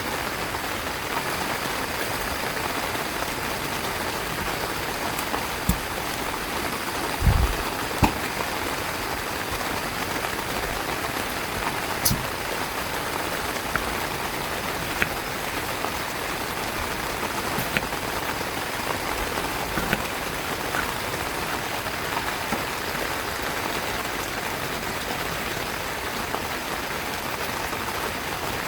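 Heavy rain falling steadily on a tent, with scattered sharper drop hits and a low thump about seven seconds in.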